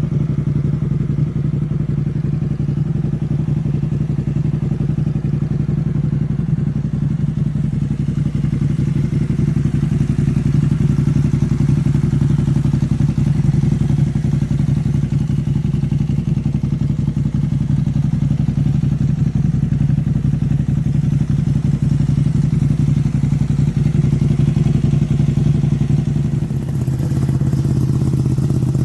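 Ducati Panigale V2's Superquadro twin-cylinder engine idling steadily through an Arrow aftermarket exhaust. Near the end the sound dips briefly and then runs on with a hissier, slightly changed tone.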